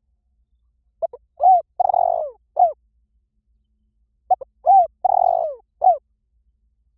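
Spotted dove cooing: two phrases, one about a second in and one about four seconds in, each a couple of quick short coos, a longer rolling coo, and a short closing coo.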